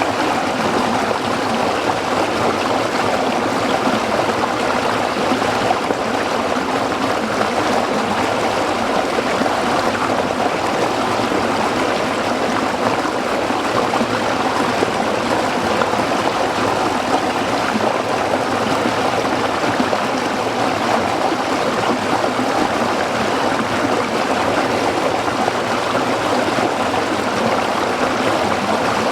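A small stream flowing and trickling over rocks, a steady babbling rush of water with no pauses or changes.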